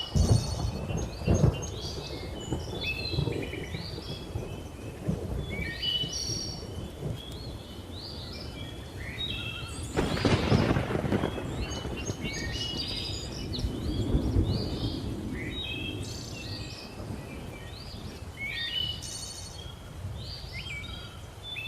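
Thunder rumbling in several rolls, at the start, about ten seconds in and again a few seconds later, under a dense chorus of many birds chirping and calling throughout.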